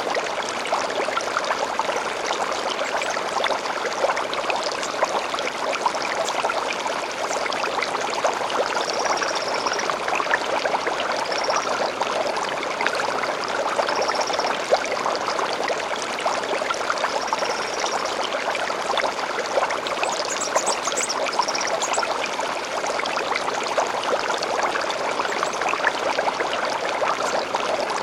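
Shallow stream babbling and trickling steadily, with short high bird chirps breaking in now and then, mostly in the middle of the stretch.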